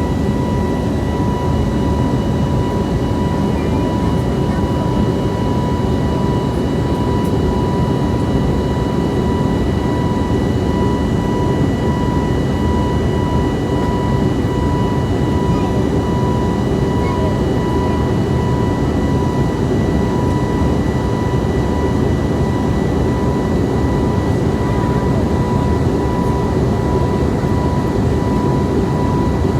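Jet airliner cabin noise in cruise flight: a steady loud rush of engine and airflow noise, with a thin steady high whine running through it.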